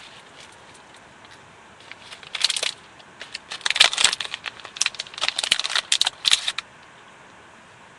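Rustling and crinkling noise close to the microphone, in irregular crackly bursts from about two seconds in until it stops a little before the end.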